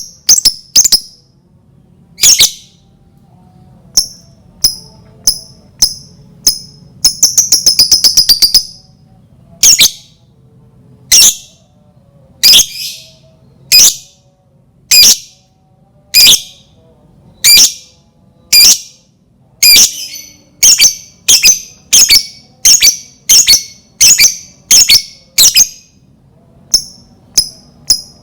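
Lovebird giving loud, shrill, short calls one after another about once a second, with a fast chattering run of calls about seven seconds in.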